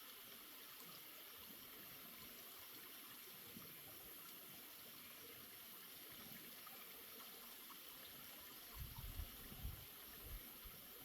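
Near silence: a faint steady hiss, with a few soft low thumps about nine to ten seconds in.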